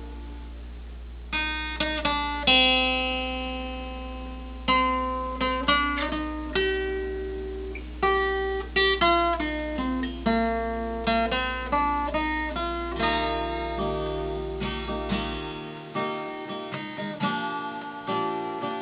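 Acoustic guitar instrumental break: picked single notes and chords ringing out one after another, starting about a second in. A steady low hum sits underneath and cuts off suddenly near the end.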